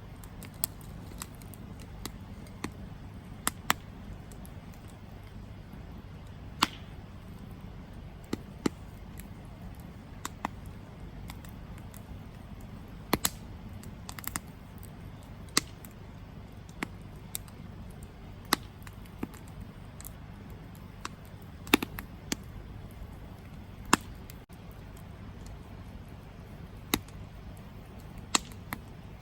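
Campfire burning: wood crackling with sharp, irregular pops every second or two, a few much louder than the rest, over a steady low rumble.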